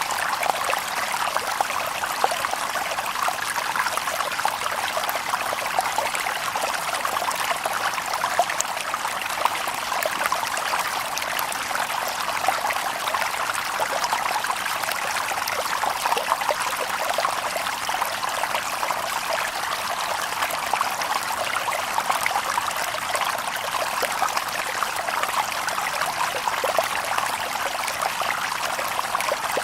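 Shallow stream babbling over stones: a steady, dense rush of water with many small quick splashes and trickles, no birds.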